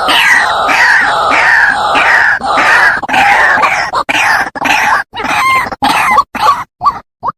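White-breasted waterhen calling: a quick series of harsh, repeated falling notes, about one and a half a second. From about four seconds in, the call breaks into short choppy fragments separated by brief silences.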